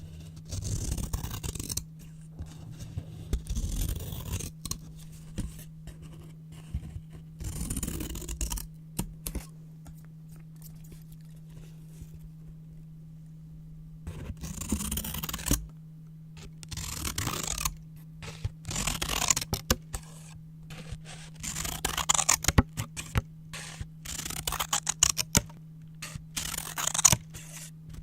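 Scissors cutting brown paper in irregular snips, with paper rustling between cuts. There is a lull of several seconds near the middle, then a denser run of louder snips. A faint steady low hum sits underneath.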